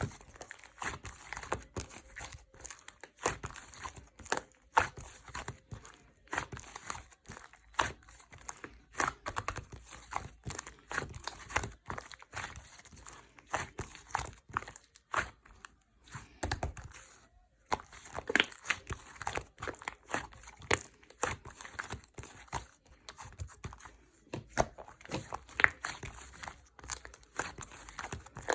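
Yogurt slime being squished and stretched by hand, giving an irregular run of sticky pops and clicks, several a second, with a brief pause about two-thirds of the way through.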